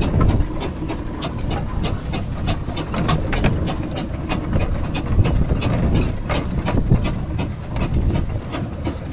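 Steam road engine running, with a low rumble and a regular ticking beat of sharp clicks, about four a second at first and sparser later.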